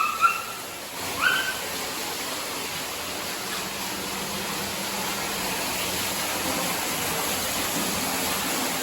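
Steady rush of falling water from a waterfall, slightly louder toward the end, with two short high rising calls in the first second and a half.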